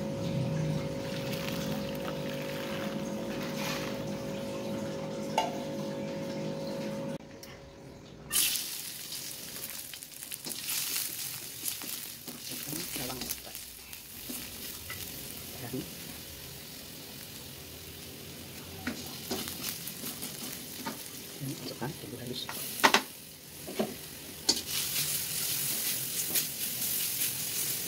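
Chopped garlic sizzling in hot oil in a wok, stirred with a spatula that scrapes and clacks against the pan, with one sharp clack toward the end. Before the frying starts there is a steady hum for several seconds, which cuts off suddenly.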